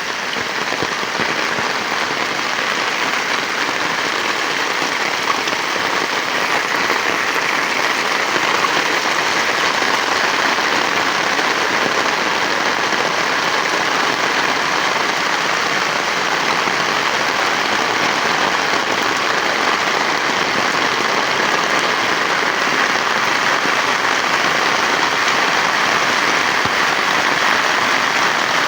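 Heavy rain falling steadily, a dense even hiss of drops that grows slightly louder over the first several seconds.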